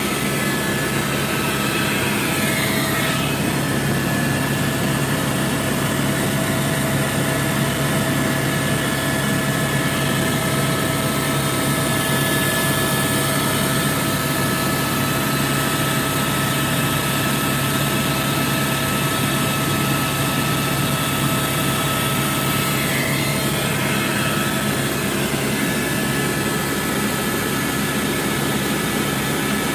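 Helicopter in flight heard from inside the cabin: a steady drone of turbine and rotor, with a few constant whining tones over the noise.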